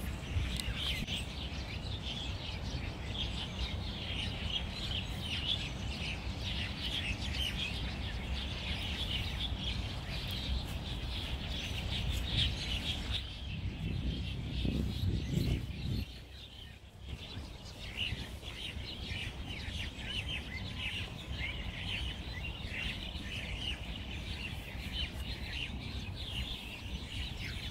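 Many small birds chirping and twittering in quick, overlapping calls over a steady low rumble.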